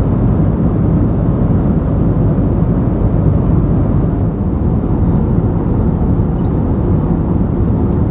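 Airbus A320neo airliner cabin noise: a steady, loud low rumble of the engines and airflow heard from inside the cabin.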